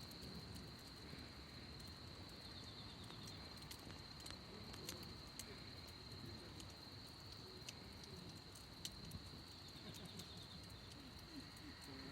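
Wood fire crackling, with scattered sharp pops, over a steady high insect trill.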